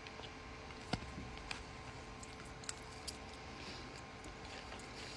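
Quiet chewing of a mouthful of kale salad, with a few faint clicks of a fork against the bowl, the sharpest about a second in.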